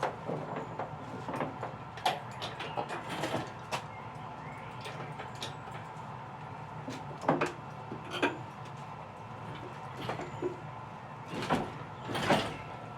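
Irregular clicks, knocks and short scrapes over a steady low hum, the loudest knocks coming in the second half.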